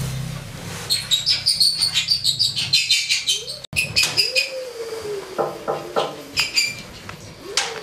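Birds chirping in quick runs of short, high notes, with a low wavering tone that joins about halfway through.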